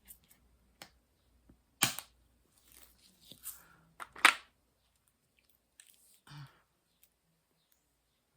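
Handling of diamond painting canvas and supplies: two sharp snaps about two and four seconds in, the second the loudest, with soft rustling and a few light ticks between.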